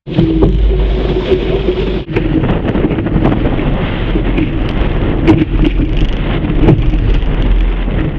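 Strong wind buffeting the microphone with a heavy low rumble, mixed with water rushing and splashing, as a Laser dinghy sails in strong wind. The sound drops out briefly about two seconds in.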